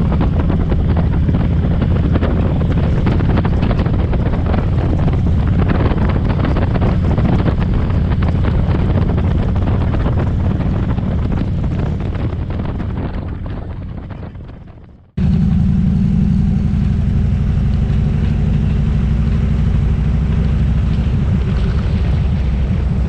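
Motorcycle engine running steadily on the road, with wind buffeting the microphone. It fades away and, about fifteen seconds in, cuts straight back in at full level.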